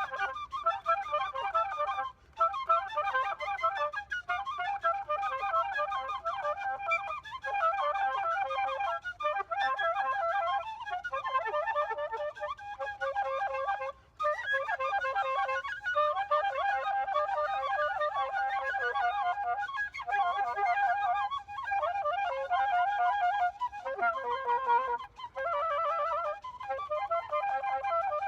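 Music: a single melody instrument, flute-like, playing a quick tune in phrases broken by brief pauses.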